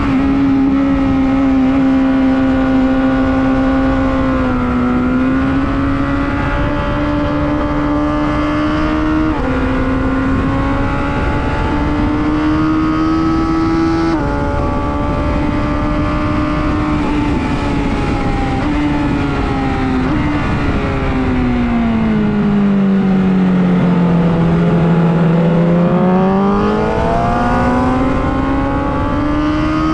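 Superbike engine at speed on a race track, heard with wind rush. The revs creep up and drop sharply twice as it shifts up, then fall steadily as it slows and climb again near the end.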